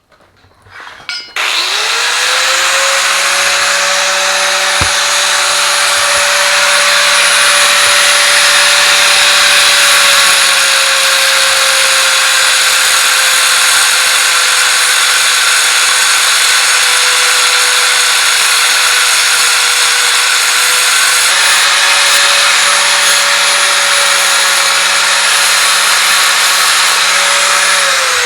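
Angle grinder spinning up and cutting off a piece of steel, running continuously for about 26 seconds with its motor pitch sagging a little under load partway through, then winding down near the end.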